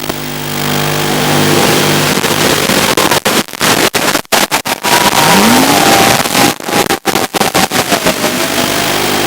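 Small FPV toothpick quadcopter's brushless motors and Gemfan 2540 tri-blade props whining in flight, the pitch shifting and gliding up and down with throttle. The sound cuts out briefly many times from about three seconds in.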